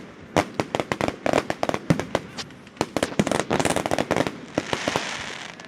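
Aerial fireworks going off: a rapid run of sharp bangs and pops, densest in the middle, followed by a hissing crackle about five seconds in, as of crackling stars.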